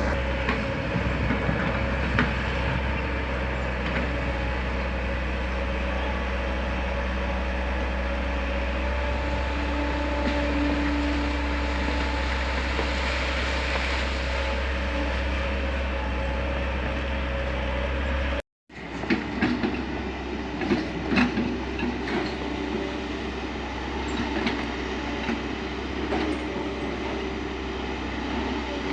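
Excavator's diesel engine running steadily with a hum. After a brief cut about two-thirds of the way through, the engine runs on with repeated metallic clanks and knocks from the working machine.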